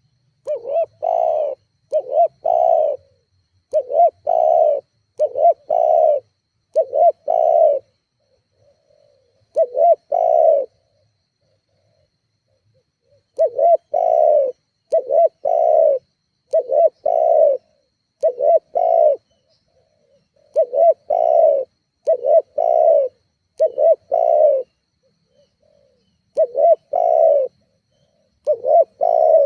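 Spotted dove (tekukur) cooing: loud, low coo notes that come mostly in pairs, repeated over and over, with a couple of short pauses.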